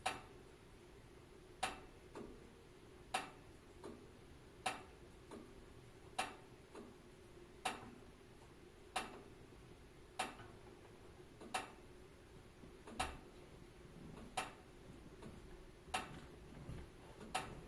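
Wood fire crackling: sharp pops about every second and a half, with fainter crackles between them, over a low steady rumble of the burning fire.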